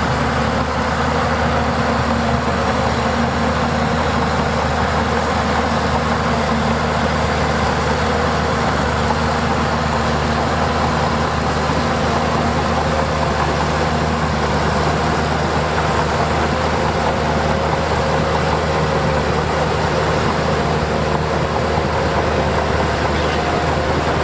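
Heavy diesel engine of earthmoving machinery running steadily under load, a continuous low hum with a slight drift in pitch in the second half.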